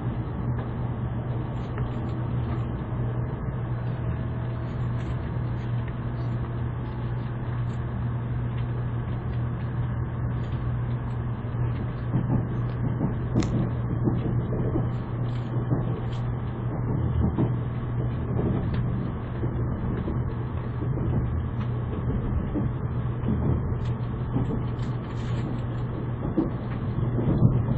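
Inside the cabin of an N700 series Shinkansen pulling out and gathering speed: a steady low hum over the rumble of the running train. Irregular knocks and rattles join in from about halfway through.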